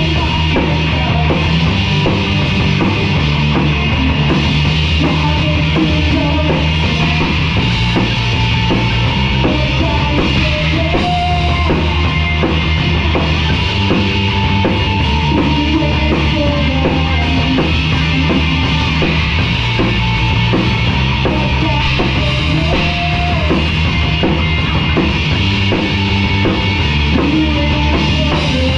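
Live rock band playing a song at a steady, loud level, with the drum kit prominent.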